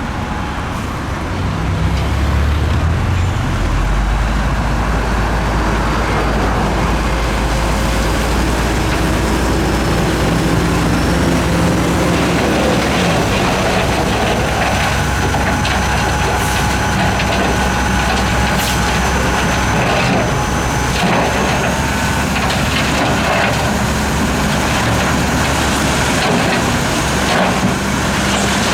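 Heavy diesel earthmoving machinery, a bulldozer or dump truck, running steadily under load, with scattered cracking and clattering as rock and soil are pushed and dumped.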